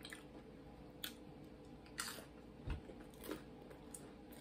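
Mouth-close chewing of tortilla-chip nachos: a few short, crisp crunches about a second apart, with quiet chewing between.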